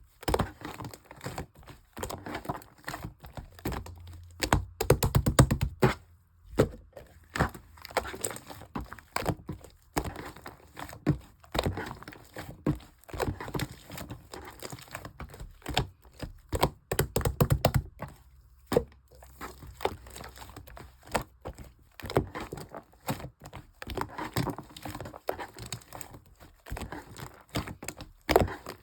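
Clear slime mixed with shaving foam being squished and pressed by hand, giving irregular sticky clicks, pops and crackles of air bubbles, with denser runs of crackling about five seconds in and again about seventeen seconds in.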